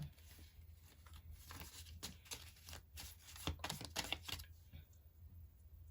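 A deck of cards being shuffled and handled, a faint run of light clicks and snaps that thins out after about four and a half seconds.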